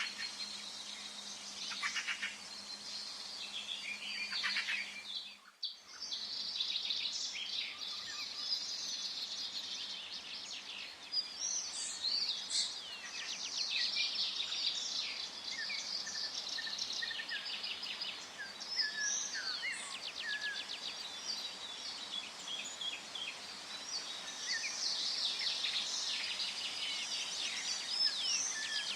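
Forest birdsong: several birds chirping, trilling and calling over each other, over a soft background hiss. A little over five seconds in, the sound briefly drops out almost to nothing, and a low hum heard before the dropout stops there.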